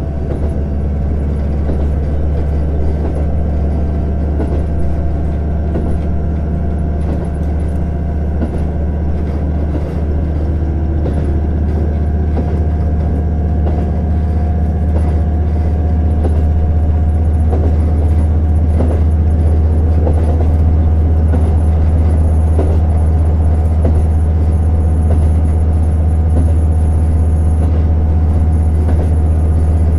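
JR Hokkaido KiHa 150 diesel railcar under way: a steady low engine drone with wheel-on-rail noise and scattered light clicks, growing slowly louder through the first half.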